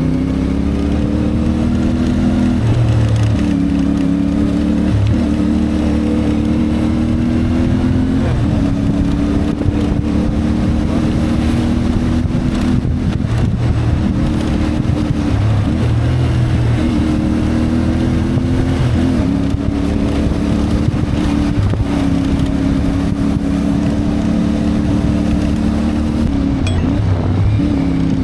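CFMoto 450MT parallel-twin motorcycle engine running under way, its pitch dropping and climbing again several times with throttle changes and gear shifts, over a steady low rumble of wind and road.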